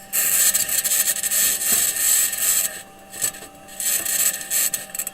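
Raw audio of NASA's Perseverance rover driving on Mars: harsh scraping and grinding from its metal wheels and suspension rolling over rock, coming in uneven bursts with a short lull just past the middle, over a faint steady electrical tone.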